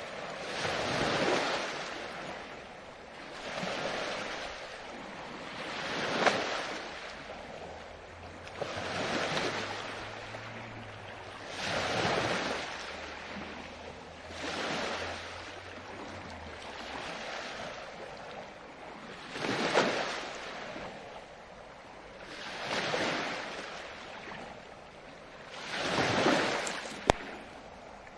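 Ocean surf washing in and out, a wave surging and fading about every three seconds. A faint low hum sits under it for a stretch in the middle, and a sharp tick cuts through near the end.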